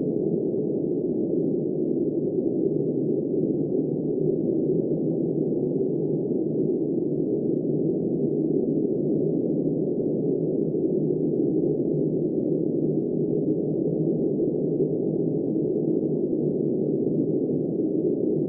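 Steady, low, muffled rush of wind noise with no high hiss and no gusts, holding an even level.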